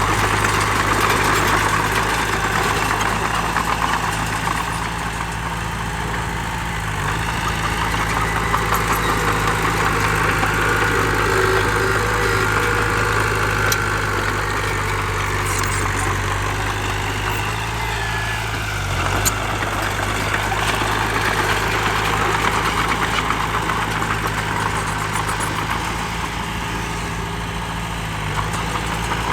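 Heavy diesel engine of earthmoving machinery running steadily with a low, even hum.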